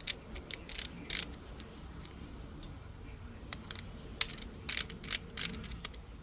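Irregular small clicks and a few short scrapes of metal jeweler's tools being handled and set up at a workbench. The loudest cluster falls about four and a half to five and a half seconds in.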